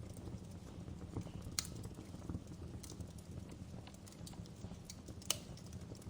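Wood fire crackling in a fireplace: a steady low rumble of burning with scattered sharp pops, the loudest about one and a half seconds in and again near the end.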